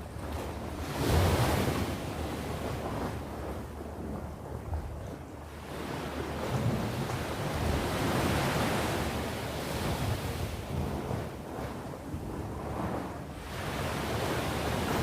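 Sea waves surging and washing onto the shore, one loud surge about a second in and a longer swell through the middle, with wind rumbling on the microphone.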